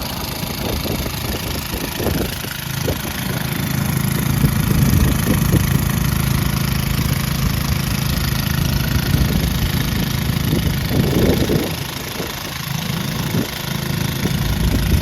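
Engine-driven water pump running steadily, pumping water into a tank.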